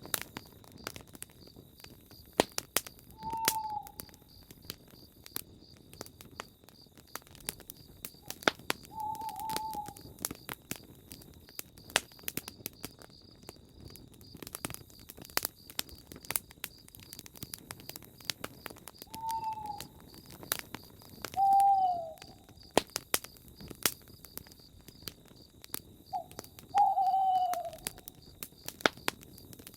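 Campfire crackling with frequent sharp pops, while a bird calls a short falling note every few seconds, six times in all.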